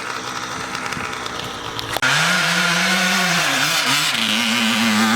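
Dirt bike engine: a lower steady running sound, then it comes in loud and close about two seconds in, revving with the pitch rising and falling over and over.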